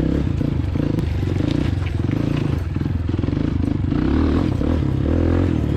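Dirt bike engine running under throttle while riding along a trail, its revs shifting as it goes.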